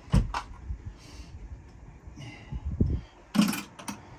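Handling noises from hand work in a boat's engine compartment: a few knocks and clicks near the start, low thumps a little before three seconds in, and a short scraping rustle with a couple of clicks about three and a half seconds in.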